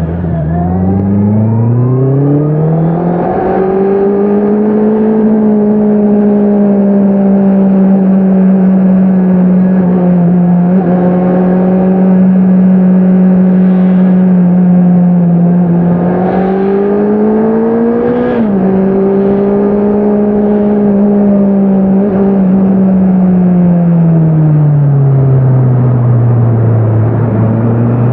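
Honda CBR650R inline-four exhaust under way: the engine note dips, then climbs steadily as the bike accelerates and holds an even pitch for a long stretch. About two-thirds through it rises again and drops sharply at an upshift, then falls away slowly as the engine slows near the end.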